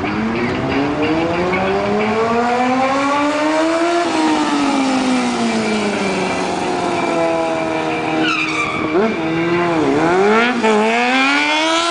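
Motorcycle engine revving: the pitch climbs steadily for about four seconds, eases back down, then gives several quick throttle blips in the last few seconds.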